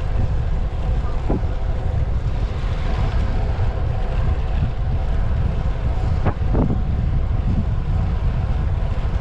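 Heavy wind noise buffeting the microphone of a camera on a bicycle riding fast, a steady low rumble, with a few brief sharp sounds about a second in and about six seconds in.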